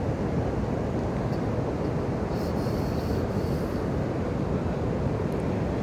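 Steady rushing of a waterfall's falling water, an even roar without breaks.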